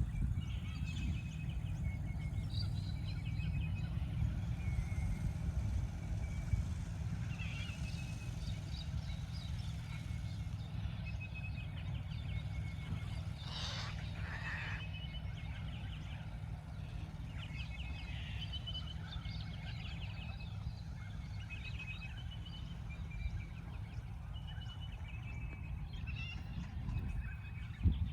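Birds calling: many short high chirps and twitters throughout, with one louder harsh screech lasting about a second and a half near the middle, over a steady low rumble.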